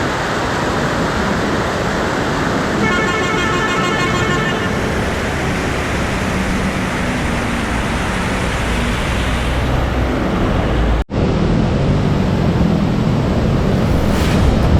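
Steady loud rushing noise with a vehicle horn sounding once for about a second and a half, about three seconds in. The sound breaks off for an instant about eleven seconds in.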